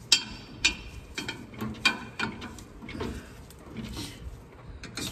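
Irregular sharp clicks and clinks of hand tools working on metal.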